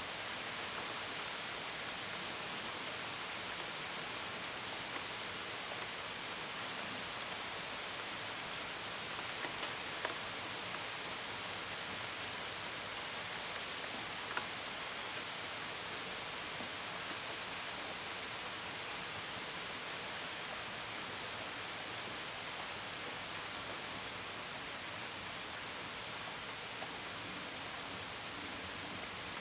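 Steady rain falling, an even hiss with the patter of drops on a window and gutters, and a few sharper single drops now and then. Faint cricket chirping runs under the rain.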